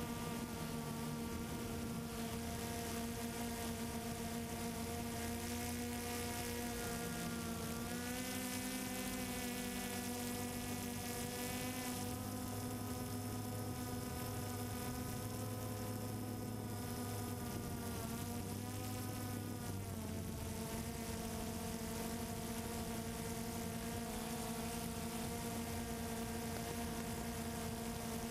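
Multirotor drone's electric motors and propellers buzzing steadily, with a pitch that wavers and shifts twice, about a third of the way in and again about two-thirds in, as the motor speed changes.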